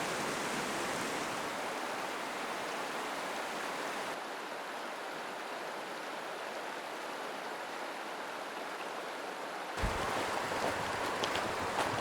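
Mountain stream flowing: a steady rush of running water. Near the end the rush grows suddenly louder, with a low thump.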